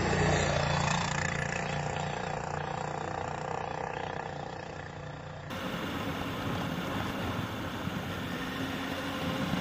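Motorcycle riding noise: the engine running under steady road and wind noise. The sound changes abruptly about five and a half seconds in, where two recordings are joined.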